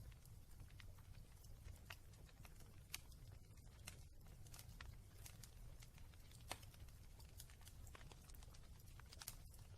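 Wood fire crackling in a fireplace: irregular small pops and snaps over a low rumble, with a few sharper pops about six and a half and nine seconds in.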